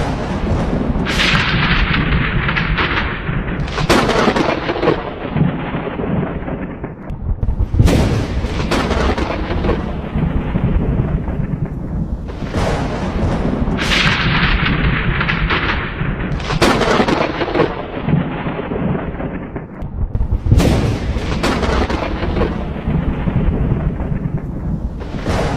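Thunderstorm with steady rain and rumbling thunder: several sudden cracks of thunder, each rolling off over a few seconds into a low rumble.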